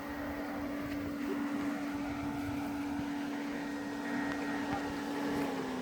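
ATV engine running at a steady speed while riding, a constant drone over rumbling ground and wind noise; the engine note dips slightly near the end as the throttle eases.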